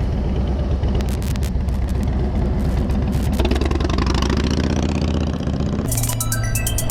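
Motorcycle engine running on the move, with a few short knocks early on and the engine note rising briefly around the middle. Electronic music with a steady beat cuts in about a second before the end.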